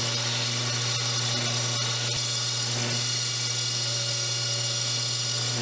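Bandsaw running steadily with a constant motor hum while resawing a strip of Gurit H80 foam core lengthwise.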